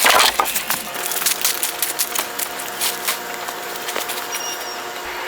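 Rapid, irregular clicks and knocks over a faint steady hum, loudest at the very start.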